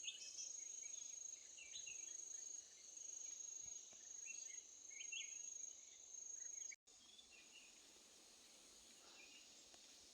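Insects trilling steadily on one high note, with scattered short chirps over it. There is a sudden break about two-thirds of the way through, after which the sound is quieter.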